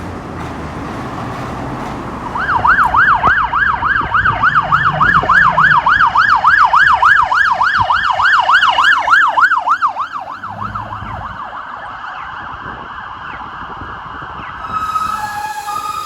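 Police car siren in yelp mode, a fast rising and falling wail of about four sweeps a second, loud for several seconds and then fading away, over road traffic. Near the end a different two-note tone alternating high and low starts.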